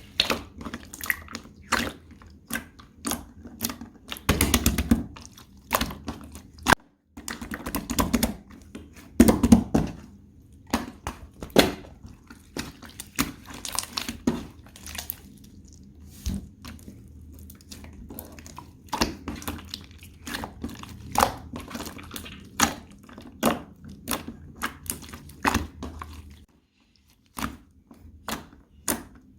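Soft clay slime being poked, pressed and squeezed by hand: a steady run of sticky clicks and small pops, with fuller, squishier presses about four and nine seconds in.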